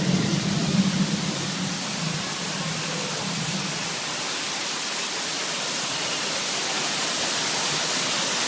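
Simulated rainforest thunderstorm: a low thunder rumble fades out over the first four seconds, leaving a steady hiss of rain.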